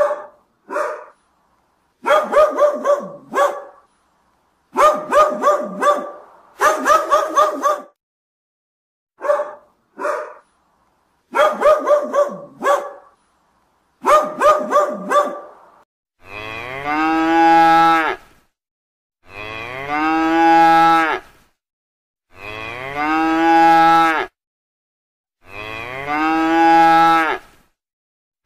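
A dog barking in quick runs of several barks with short pauses between, then, about halfway through, cattle mooing: four long, drawn-out moos of about two seconds each, spaced roughly three seconds apart.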